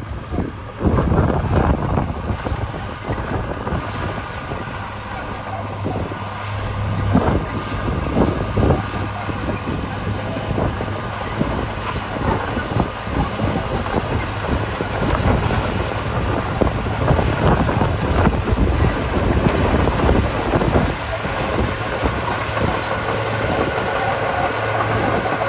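Komatsu D41P crawler bulldozer's diesel engine running steadily under load, with irregular clanking from its steel tracks and scraping as it pushes and spreads gravel.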